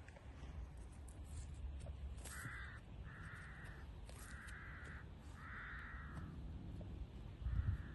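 A bird giving five harsh, raspy calls in a row, each about half a second long, over a low rumble. A low thump comes near the end.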